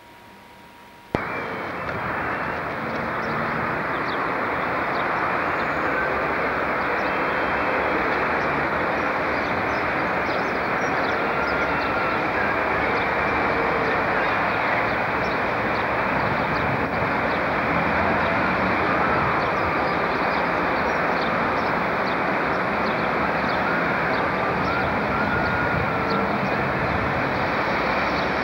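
A locomotive-hauled passenger train running slowly into a station platform: a loud, steady rumble of the locomotive and its wheels that starts abruptly about a second in.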